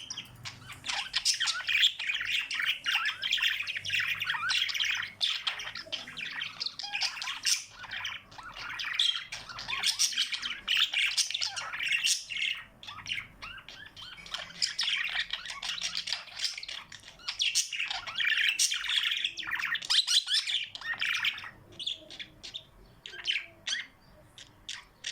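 Pet cage birds chirping, many at once in a dense, continuous chatter that thins to scattered single chirps for the last few seconds.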